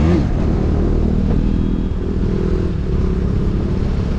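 KTM Duke 250's single-cylinder engine running steadily under way, heard from the rider's seat.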